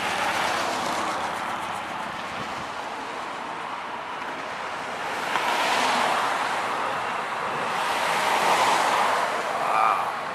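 Airshow plane's engine droning in the distance, swelling about halfway through and again near the end.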